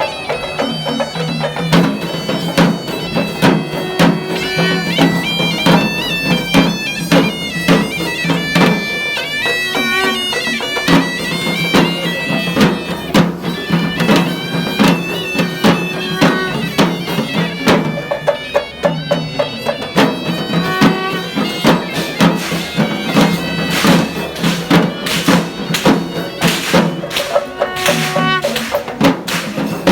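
Traditional Sri Lankan procession music: a shrill reed pipe plays a winding melody over a steady drone, with rapid drumming throughout.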